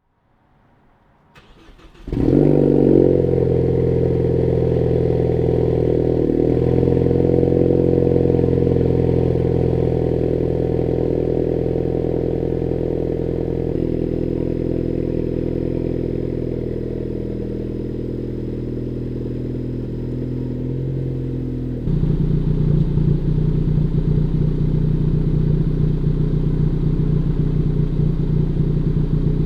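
A 2014 Ford Focus ST's turbocharged 2.0 L EcoBoost four-cylinder, breathing through an AWE Touring resonated cat-back exhaust on the stock downpipe, cranks briefly and catches about two seconds in. It then holds a high cold-start idle that slowly settles lower. About twenty-two seconds in it gives way to a lower, steady warm idle.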